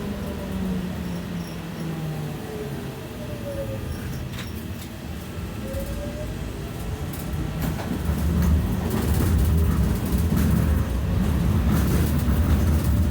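BKM 60102 tram running on the rails, its motor whine falling in pitch as it slows and then rising again as it picks up speed. From about two thirds of the way in, a louder wheel-on-rail rumble sets in, with a few sharp clicks.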